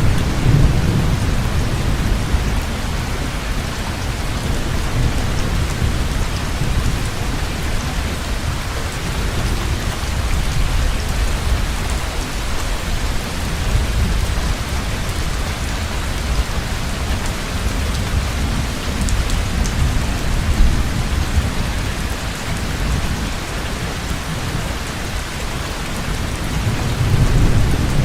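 Heavy rain falling steadily, with low rolls of thunder rumbling underneath. The rumbles swell near the start and again near the end.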